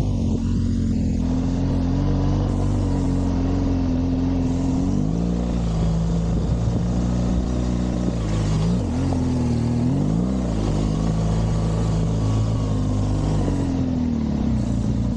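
BMW R1200GS flat-twin boxer engine running under throttle. The revs hold steady, drop about five seconds in, then rise and fall briefly twice around nine and ten seconds in before climbing again near the end.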